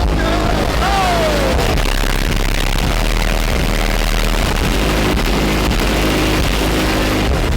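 Car trunk subwoofer system blasting bass-heavy music at full volume in a trunk-war loudness contest, with repeating deep bass notes under a harsh, dense noise.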